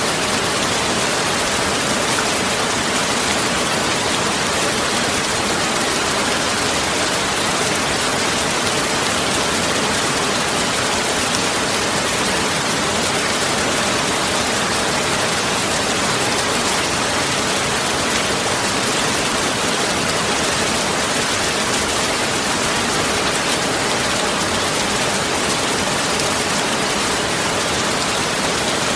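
Heavy rain pouring steadily, an even unbroken hiss with no thunder.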